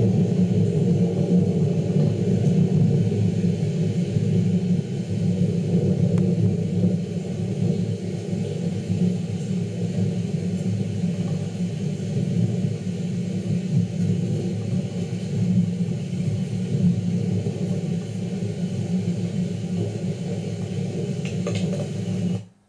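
Heavy thunderstorm: a loud, steady low rumble that cuts off suddenly at the end.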